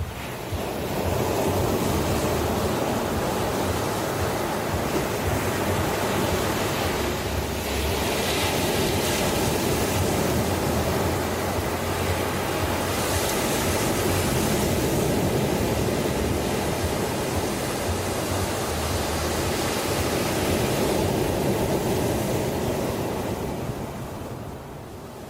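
Ocean surf: a steady rush of waves breaking and washing up the shore, swelling a few times and easing off near the end.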